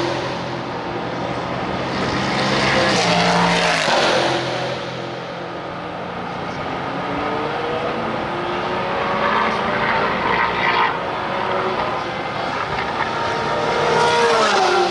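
IMSA race cars' engines at racing speed passing on track one after another. The sound swells and fades, loudest about three seconds in and again near the end, with the engine pitch dropping as the cars go by.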